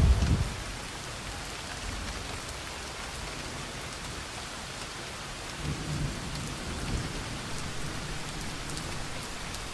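Steady rain falling, with a low rumble that swells about six seconds in.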